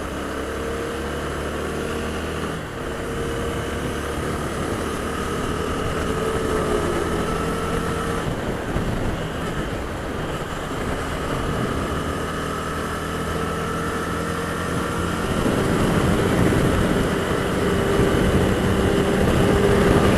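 Honda Twister's single-cylinder engine running at speed in fifth gear under the rider, with road and wind rush. Its note dips briefly about seven seconds in, and the sound grows louder over the last few seconds.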